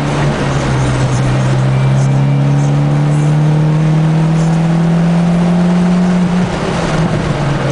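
Mitsubishi Lancer Evolution X's turbocharged four-cylinder engine heard from inside the cabin, pulling hard under acceleration: its pitch dips briefly at the start, climbs steadily for about six seconds, then falls away as the throttle comes off.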